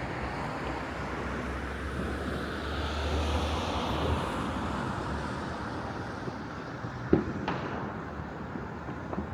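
Steady outdoor city ambience of distant traffic rumble and wind, with a sharp firework bang about seven seconds in and a smaller crack just after.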